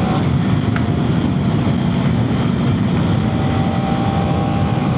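Heavy wind blast buffeting a helmet-mounted mic, over the KTM Duke 250's single-cylinder engine running steadily at road speed.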